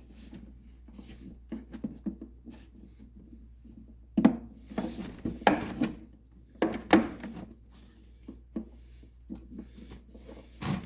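Stihl BR600 backpack blower tube parts rubbing and scraping as a tight, glued-on fitting is twisted and worked off by hand. The bursts are irregular and come thickest about four to seven seconds in.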